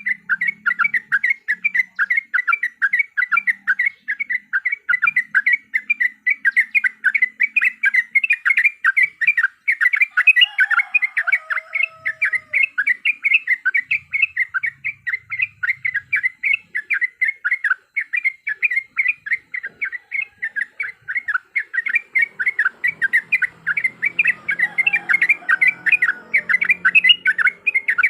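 Yellow-vented bulbul (trucukan) chattering in a rapid, unbroken series of sharp 'cuk cuk' notes, about three a second. This is the excited fighting call used as a lure to set caged trucukan calling. A fainter falling call comes in once, about halfway through.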